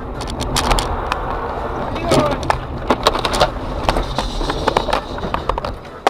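A car driving, with steady road and engine noise and a string of sharp knocks and clatters, loudest about two and three and a half seconds in.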